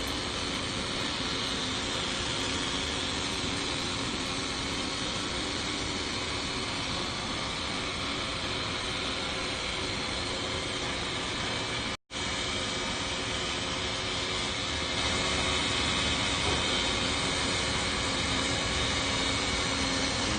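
Steady factory-floor machinery noise with a hiss-like character. It cuts out for a moment partway through.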